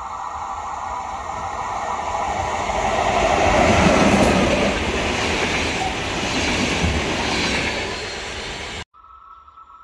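Electric locomotive hauling a passenger train passing close by at speed: the noise swells to its loudest as the locomotive goes by about four seconds in, followed by the rumble of the coaches' wheels on the rails. It cuts off abruptly near the end.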